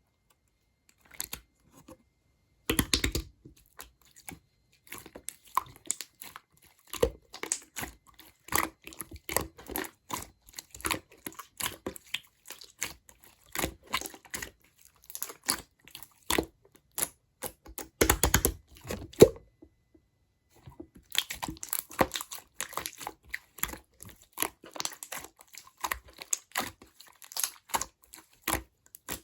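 Clear slime being squished, pressed and stretched by hand, giving an irregular stream of small wet clicks and pops, with denser runs about three seconds in, around the middle, and through the last third.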